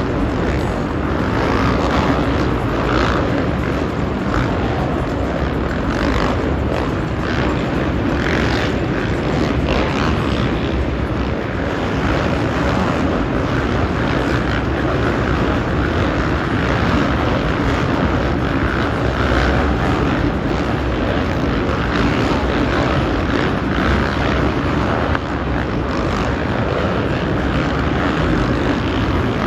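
Dirt bike engines running together on a supercross track, a loud, steady drone that holds without a break.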